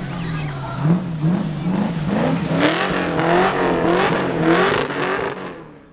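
Supercharged Holden Commodore engine revved in repeated short blips, the revs climbing and dropping about once a second at first, then more quickly. The sound fades out near the end.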